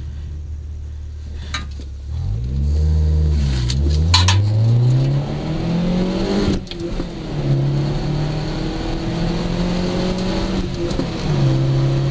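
Cabin sound of a 1991 Nissan Sentra's 1.8-litre twin-cam 16-valve four-cylinder, fitted with a Flowmaster Super 10 muffler, idling and then accelerating hard from a standstill through its five-speed manual gearbox. The engine note rises steadily, drops at a gear change about six and a half seconds in, and drops again at a second shift near the end.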